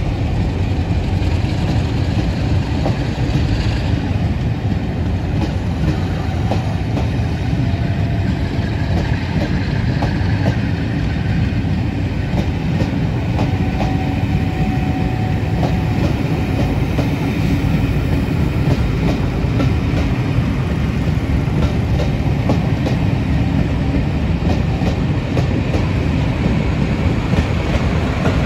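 Rake of locomotive-hauled passenger coaches rolling slowly past, wheels clicking over rail joints over a steady low rumble.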